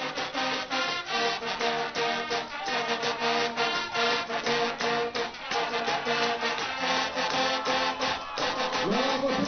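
Guggenmusik band playing live: brass and drums in a fast, even beat, with a rising slide in pitch near the end.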